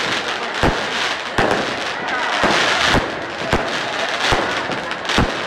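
Fireworks going off: about seven sharp bangs at irregular gaps of half a second to a second, over a continuous crackling hiss from the burning pyrotechnics.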